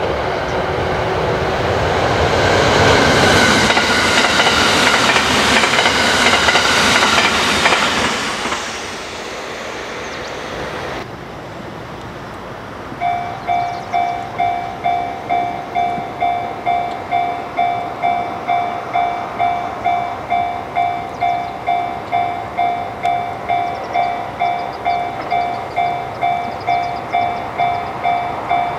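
A limited express electric train passes close by at speed, its noise swelling and fading over the first eight seconds or so. After a cut, a Japanese level-crossing warning bell rings steadily at about two dings a second, signalling an approaching train.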